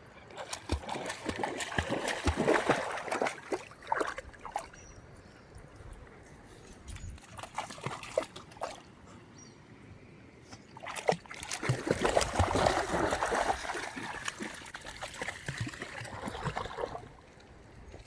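Water splashing in a river, in two loud spells about ten seconds apart, with quieter trickling between.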